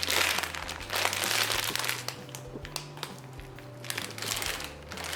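Plastic packaging crinkling in bursts as a squishy toy is handled.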